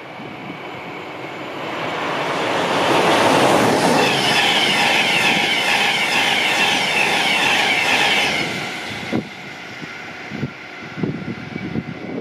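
Electric InterCity 225 express of Mk4 coaches running through at speed: the rush of wheels on rail swells as it nears, holds loud with a high hissing rail noise for about five seconds as the coaches pass, then dies away. A few short knocks follow near the end.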